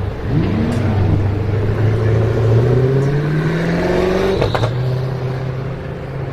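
A supercar's engine and exhaust pulling under load, the revs climbing steadily for about four seconds, then a sharp crack and a drop in pitch as it shifts up, after which it runs on steadily. A quick rev sweep up and down is heard about half a second in.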